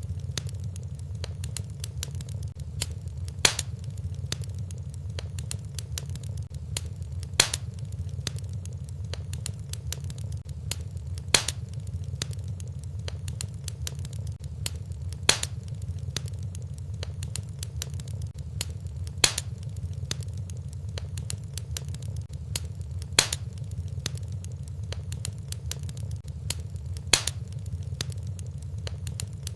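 Fireplace fire crackling over a steady low rumble, with dense small crackles and a louder sharp pop about every four seconds in an even, looped rhythm.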